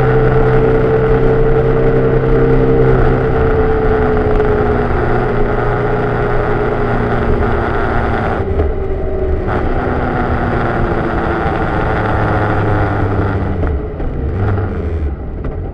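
Vehicle engine and road noise picked up from outside at the left mirror while driving. The engine's pitch slowly falls through the first half as it slows, and the sound drops in level near the end.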